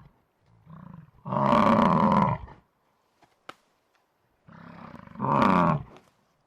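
A large animal calling twice. Each call begins with a quieter low lead-in and swells into a loud, pitched call lasting about a second, the first soon after the start and the second near the end.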